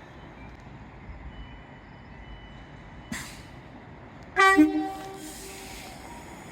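Train horn sounding once, loud and brief, with two tones together, a little past halfway through, over the steady rumble of a train. A sharp click comes about a second before the horn.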